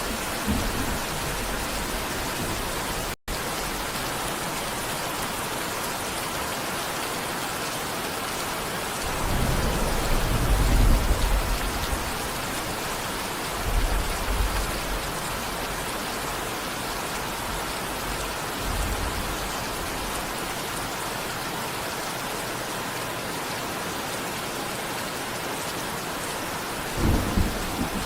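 Steady rain falling hard, with thunder rumbling several times. The longest and loudest roll comes about a third of the way in, and another comes near the end. The sound cuts out for an instant about three seconds in.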